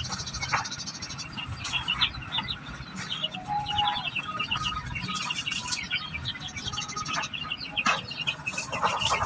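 Society finches chirping: many short, high, rapid chirps overlapping, with a few brief longer notes among them.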